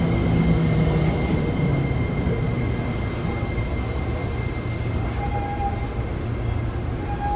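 Tokyo Metro 7000 series subway car running, heard from inside: a steady low rumble of wheels on rail with a thin high whine, likely from its Hitachi IGBT-VVVF traction equipment, that fades out about five seconds in as the overall sound slowly drops.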